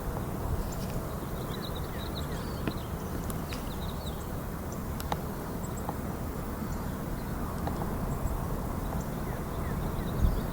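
Outdoor wetland ambience: a steady rushing noise, heaviest in the low end, with faint, short, high bird chirps scattered through the first few seconds.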